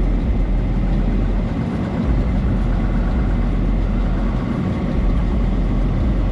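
Truck engine idling at low revs, a steady low engine sound without changes in pitch.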